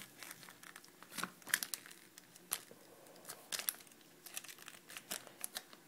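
Plastic microwave cooking pouch crinkling as it is handled: irregular short, sharp crackles.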